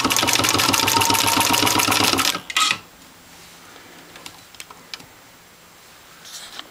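Motorized 1922 Singer 66 sewing machine stitching through several layers of heavy 1000D nylon Cordura, its needle and mechanism running in a fast, even rhythm over a motor hum. It stops a little over two seconds in with a click, leaving only a few light clicks.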